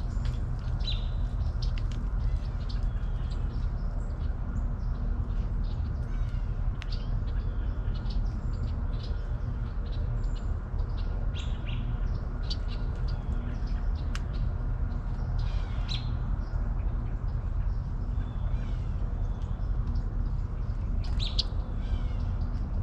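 Outdoor ambience of songbirds chirping and calling on and off over a steady low rumble, with one sharp click about two-thirds of the way through.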